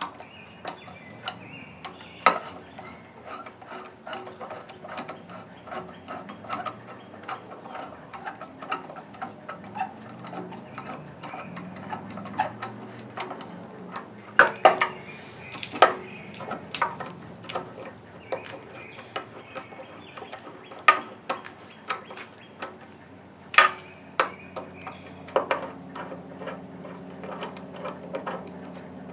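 Irregular clicks, clinks and knocks of hand tools and metal parts being handled during work on an old engine, with a few louder knocks.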